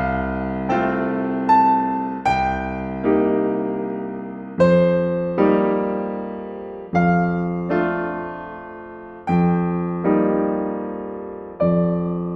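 Slow, gentle solo piano music: notes and chords struck about once a second, each left to ring and fade away.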